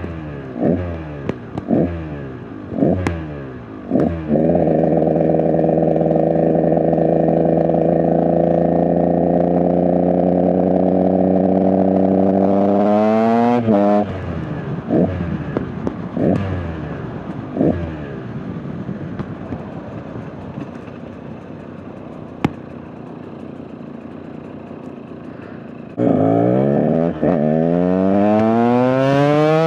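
KTM 125 EXC single-cylinder two-stroke dirt bike engine under way. There are a few quick throttle blips, then a long steady pull at held revs, a sharp rise and drop, more blips and a quieter stretch off the throttle, and near the end it revs hard up through the gears. The owner says the bike is not running great.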